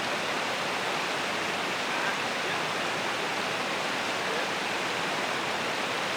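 Steady rushing of a creek's flowing water, an even noise without breaks.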